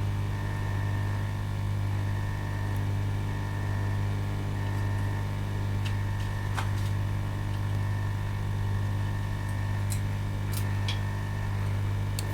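Steady low hum of running bench equipment, with a few faint small clicks of metal tools on the circuit board, most of them in the second half, while capacitors are being removed.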